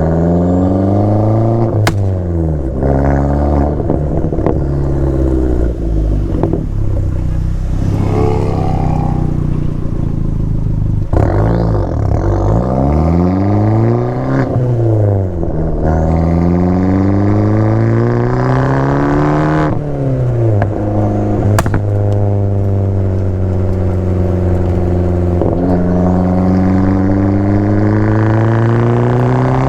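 Abarth 500's turbocharged 1.4-litre four-cylinder engine running through an El Gato exhaust with a 200 high-flow cat, being driven hard through the gears. The engine note climbs and then drops sharply at each shift, several times over, with slower falls in between and one long steady climb in the later part.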